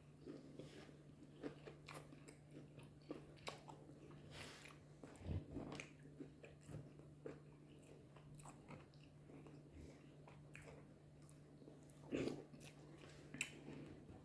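Faint close-up chewing and biting, eating fufu and goat meat soup: scattered soft smacks and clicks of the mouth at irregular intervals, over a steady low hum.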